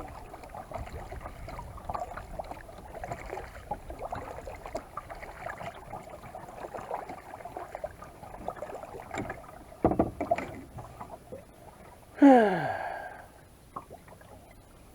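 Kayak paddle strokes dipping and splashing in lake water, in uneven surges, with a couple of knocks against the hull about two-thirds through. Near the end comes a brief, loud sound that falls steeply in pitch.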